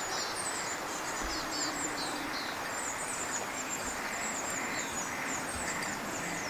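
The Azusa River, a clear snowmelt mountain river, babbling steadily, with small birds giving quick, high chirping calls over it throughout.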